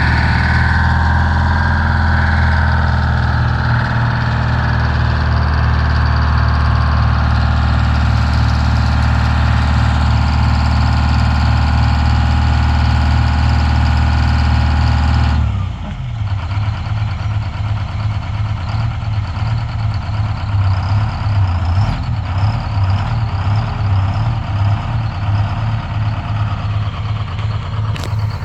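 Ford 8000 dump truck engine running steadily at raised speed, then dropping back about halfway through to a lumpy, pulsing idle.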